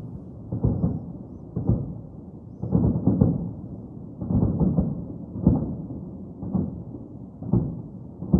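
Distant fireworks going off in a slowly building crescendo: muffled low booms about once a second, each trailing off in a rumble of echo.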